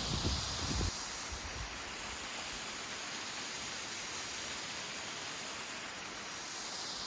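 Steady, even rushing hiss of outdoor ambience, with a few low thumps on the microphone in the first second.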